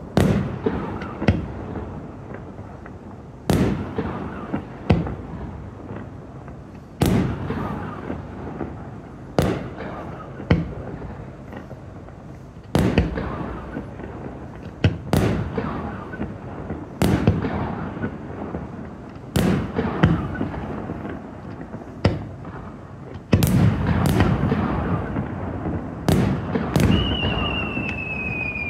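Aerial firework shells bursting one after another: sharp bangs every second or two, each trailed by a rolling rumble. Near the end a high whistle sounds and slowly falls in pitch.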